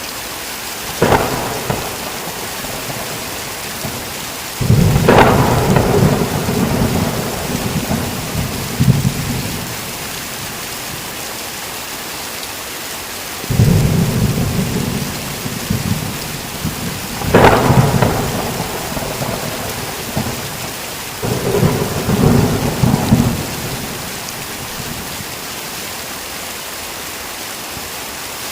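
Heavy rain falling steadily through a thunderstorm. Thunder cracks sharply about a second in, then comes in several rolling peals, some opening with a crack, each lasting a few seconds.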